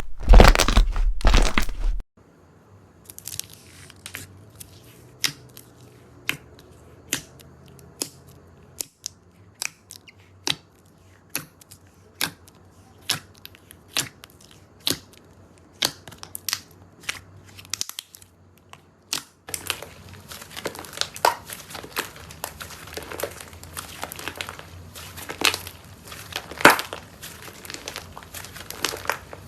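Slime being pressed and squeezed by hand, making crunchy, crackling sounds. In the middle it gives sharp clicks or pops about once a second, and near the end it turns into dense, continuous crackling.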